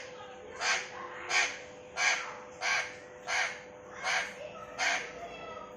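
Pet parrot giving a run of seven short, harsh squawks, evenly spaced about two every one and a half seconds.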